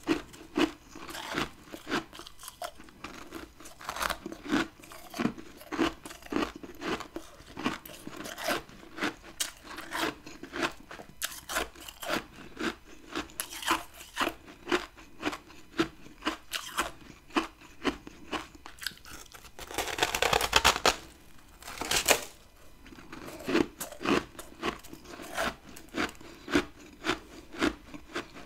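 A person biting and chewing chunks of hard freezer frost: a continuous run of crisp, crackly crunches, about two or three a second, with a louder, denser burst of crunching about twenty seconds in.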